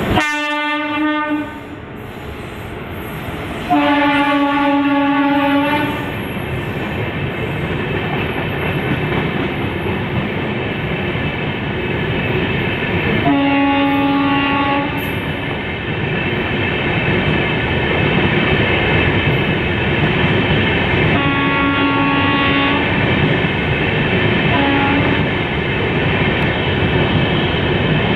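Indian Railways electric locomotive sounding its two-tone horn in several blasts, the longest about two seconds, as an express train runs through a station without stopping. Under the horn the passing train makes a steady rumble with wheel clatter.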